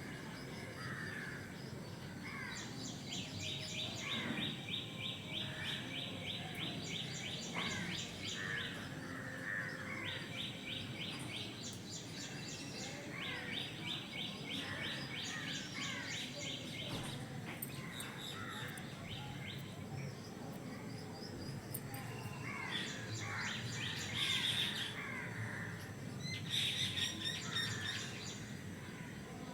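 Birds chirping and calling in a garden, with long trains of rapid, high-pitched pulsing calls and a few louder calls near the end.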